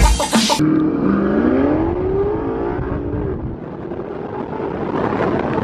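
A vehicle engine accelerating hard, its pitch climbing for about two seconds and then easing off, with a loud burst of noise right at the start.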